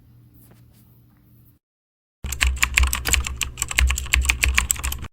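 Faint room tone, a brief dead silence, then a quick run of sharp clicks, about ten a second, over low thumps.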